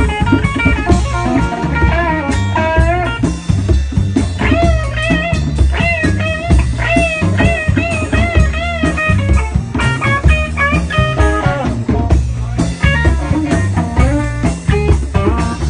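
Live band playing an instrumental mambo in B flat: a guitar plays a lead line with bent, wavering notes over bass and drum kit.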